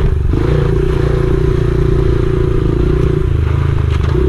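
Honda XR70R pit bike's small single-cylinder four-stroke engine running under way, with a brief dip just after the start and a drop in pitch about three seconds in.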